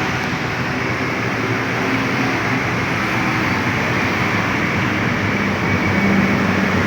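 Kawasaki KX two-stroke trail bike engine running.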